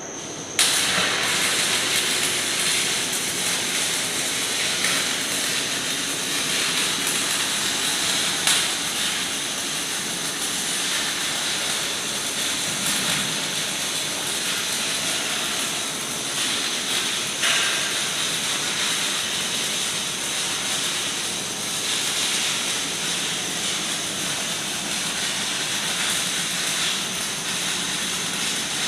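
Welding arc struck about half a second in, then a steady crackling hiss with a few sharper pops.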